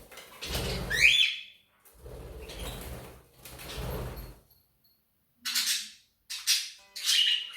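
Budgies giving short chirps and squawks, one rising chirp about a second in, mixed with rustling and scraping in the first half.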